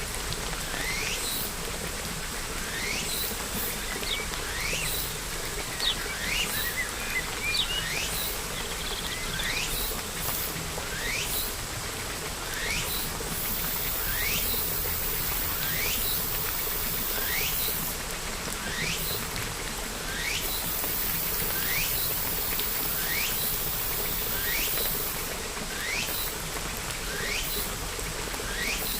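Steady rain with a bird repeating a short, rising chirp about once a second, and a brief flurry of quicker chirps about six seconds in. A high hiss swells and fades twice in the middle.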